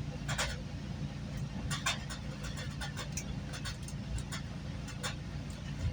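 GO Transit commuter train under way, heard from a coach: a steady low rumble of the running train, with a few short sharp clicks and knocks.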